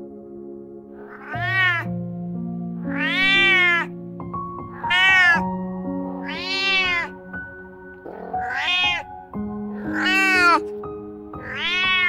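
Newborn kittens mewing: seven high, arching cries, one about every second and a half, over soft background music with long held notes.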